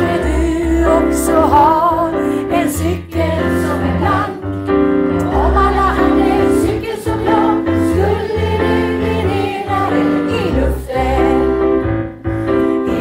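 A choir singing a song with piano accompaniment, the melody carried over held chords and a pulsing bass line.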